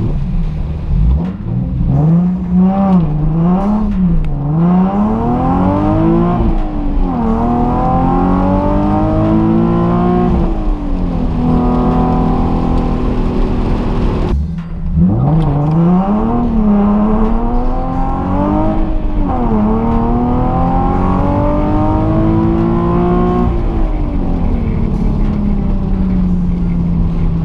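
Nissan 370Z's V6 with a cat-deleted exhaust, heard from inside the cabin, accelerating through the gears. The engine pitch climbs and then drops at each upshift, in two runs with a short steady cruise between them.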